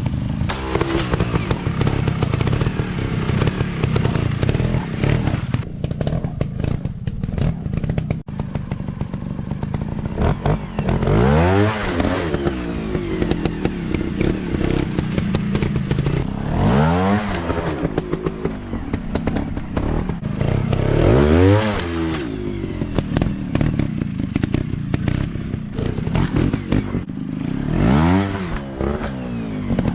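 Dirt bike engine running, its revs rising and falling sharply about four times, with rattling and clattering between the revs.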